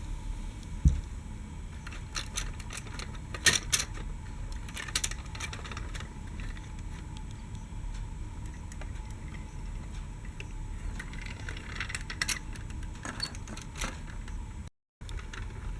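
Scattered light clicks and clatter, as of small diecast and plastic toy vehicles being handled, over a low steady background rumble; a single heavier knock about a second in.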